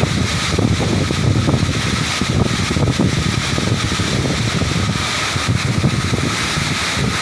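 Waterfall rushing: a steady, loud, even roar of falling water with a deep rumble.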